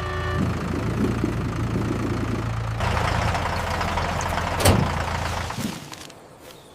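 Tractor engine running steadily at a low idle, with one sharp click a little under five seconds in, then fading away near the end.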